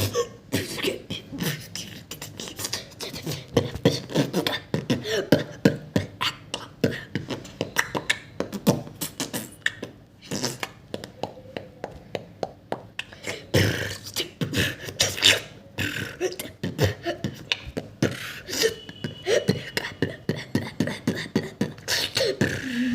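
A person beatboxing: a fast, uneven run of sharp percussive mouth sounds, kick-, snare- and click-like, with short hummed or voiced tones in between.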